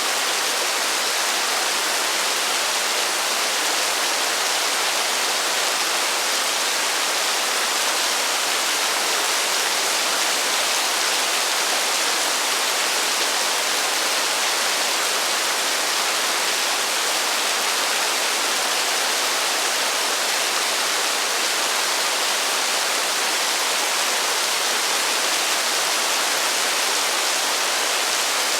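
Heavy rain falling steadily with no thunder: an even, unbroken hiss, strongest in the upper range.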